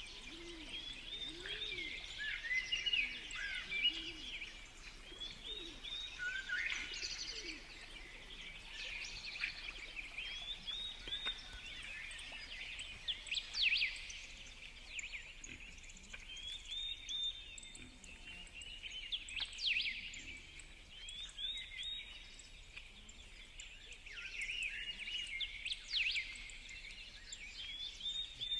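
Many small birds chirping and twittering at once, short overlapping calls throughout, with a few sharp louder notes. In the first few seconds a low call repeats over and over beneath the chirping.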